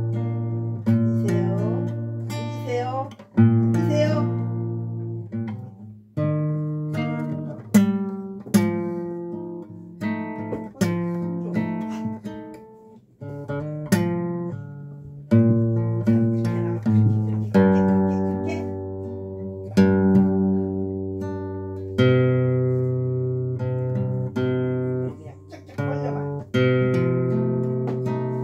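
Acoustic guitar played solo, chords strummed and plucked one after another, each ringing and fading before the next stroke.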